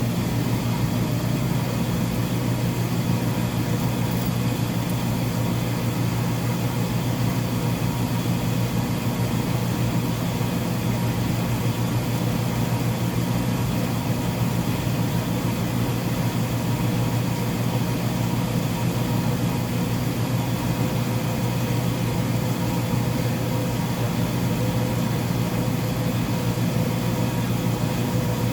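Commercial laundry machines running with a steady low hum and a few fixed tones above it; the level and pitch do not change.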